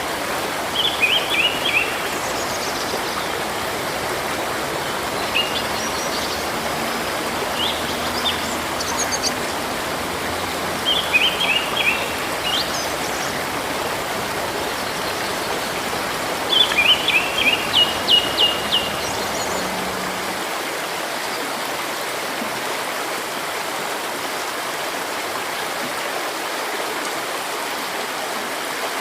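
Steady rush of a flowing stream, with a songbird calling over it in four short bursts of quick, high chirps, the longest about two-thirds through.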